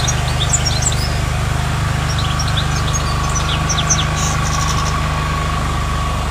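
European goldfinch singing in bursts of quick, high twittering notes, once at the start and again from about two and a half to four seconds in, over a steady low hum.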